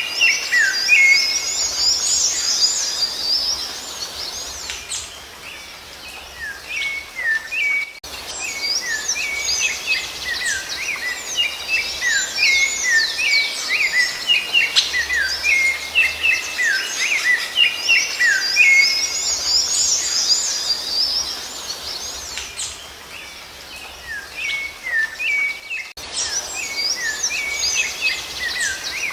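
Rufous-bellied thrush (sabiá-laranjeira) song within a dense chorus of quick whistled and chirped notes from several birds. The chorus breaks off sharply and resumes about eight seconds in and again near the end.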